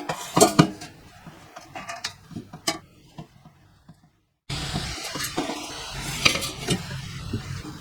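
Metal clinking and clattering, a few sharp clanks over a rustling background, with a short dead-silent gap about four seconds in.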